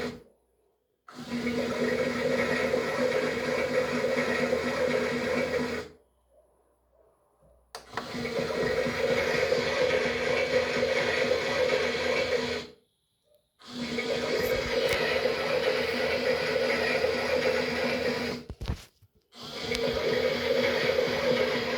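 Toy washing machine's small electric motor running with a steady hum, in four stretches that start and stop abruptly with silent gaps between.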